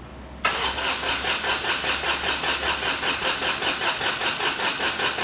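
Starter motor cranking a Kubota D905 three-cylinder diesel, starting suddenly about half a second in and turning over in a steady rhythm of about six to seven compression pulses a second without the engine catching.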